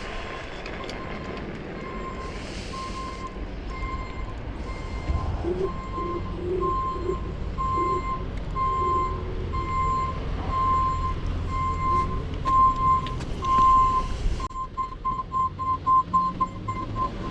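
A steady electronic beeping, one tone repeating about one and a half times a second, quickening into rapid short beeps near the end, over the rumble and wind noise of a ride.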